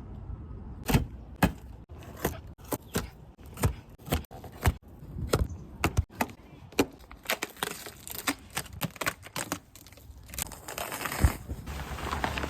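A series of irregular sharp knocks and clicks, about one to three a second, over a low rumble. A steady hiss grows in near the end.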